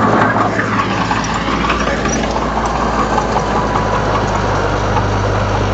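Komatsu D31 bulldozer's diesel engine running steadily at an even note.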